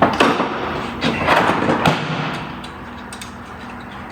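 Screwdriver and pliers scraping and knocking against metal and plastic parts while working a hose loose in a car's engine bay. There are several rough scrapes in the first two seconds, then quieter scattered clicks.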